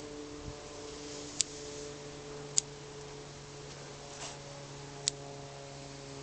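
Bonsai pruning scissors snipping shoots: three sharp snips and a fainter one, spaced about a second apart, over a faint steady hum of several tones.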